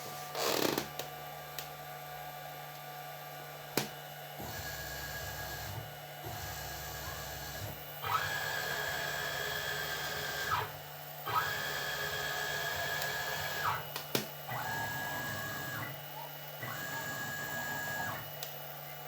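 CNC milling machine's axis motors whining through a series of moves, five in all, each a second and a half to three and a half seconds long, starting and stopping abruptly over a steady hum. A sharp click comes near the start.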